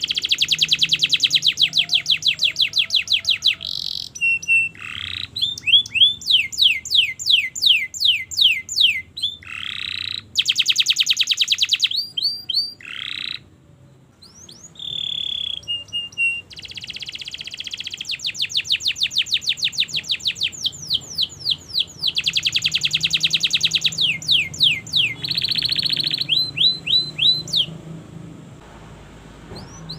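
Domestic canary singing a long, continuous song. Fast buzzing rolls alternate with runs of quick descending whistled notes, a few each second, with a brief break about halfway through and a quieter stretch near the end.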